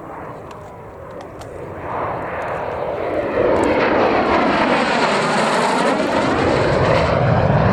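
MiG-15UTI jet trainer's turbojet making a low pass. The jet noise swells over the first few seconds, then stays loud with a sweeping, shifting tone as the aircraft goes by.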